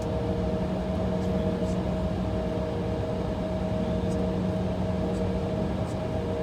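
Steady cabin drone inside an Embraer E175 idling on the taxiway: a low hum with two higher steady tones over it.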